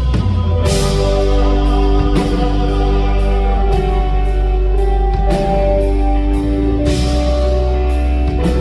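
Live band playing an instrumental passage of a pop-rock ballad: sustained guitar and keyboard chords over heavy bass, with drum kit and cymbal hits at a steady beat.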